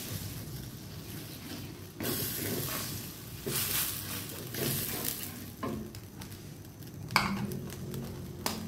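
Coconut cream and red curry paste sizzling in a nonstick wok while a wooden spatula stirs and scrapes the pan. There is one sharp knock about seven seconds in, the loudest sound.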